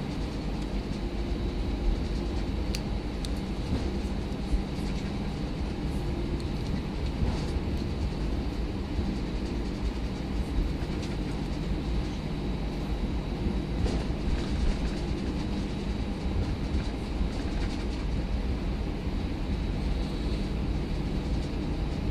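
Steady cabin noise inside an Airbus A319: a constant low rumble of engines and airflow with a few faint held tones, and occasional small clicks and rattles.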